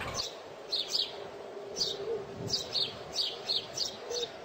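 Small birds chirping: a string of short, high chirps, about two or three a second, over a faint steady hum.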